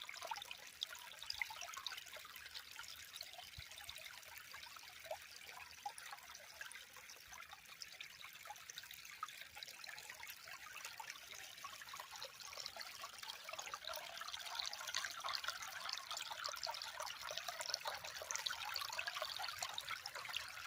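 Water trickling steadily with many small splashes, as of a shallow stream, growing a little louder in the last third.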